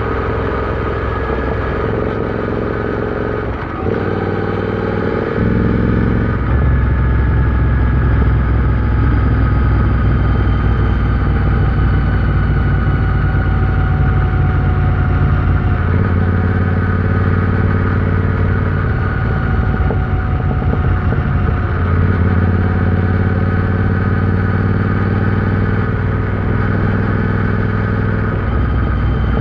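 Royal Enfield Interceptor 650's 648 cc parallel-twin engine running under way on the road. Its note holds steady for stretches and changes pitch in steps several times, with the biggest change in the first few seconds.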